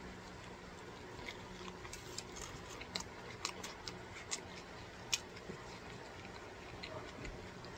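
Faint chewing of a fried shrimp taco, with soft, scattered crunches and mouth clicks.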